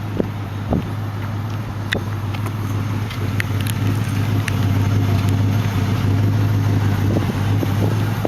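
1993 Lincoln Town Car's 4.6-litre V8 idling steadily, with a few light clicks over the hum.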